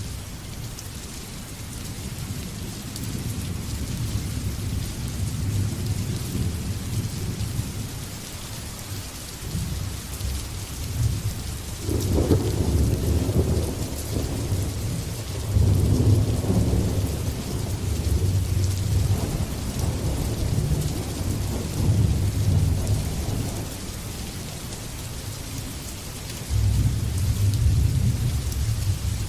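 Steady heavy rain hissing, with rolling thunder rumbling underneath; the rumbles swell and fade, with sharper, louder peals breaking in about halfway through and again near the end.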